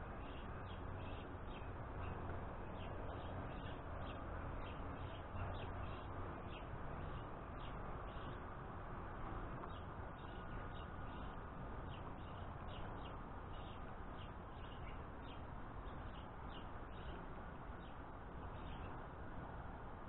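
Birds chirping: many short high calls scattered throughout, over a steady low background noise.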